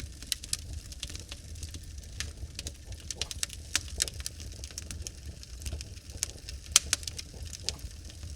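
Wood fire crackling in a fireplace: burning logs give irregular sharp pops and snaps over a steady low rumble of the flames, with one louder pop a little before the end.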